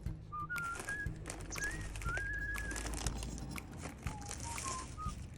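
A person whistling a slow tune, single clear notes stepping up and then back down in pitch, over scattered small crackles from a campfire.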